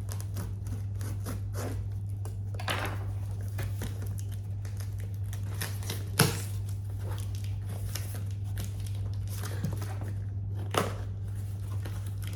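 Packaging being opened and handled: cardboard and plastic rustling with scattered clicks, a sharp knock about six seconds in and another near the end, over a steady low hum.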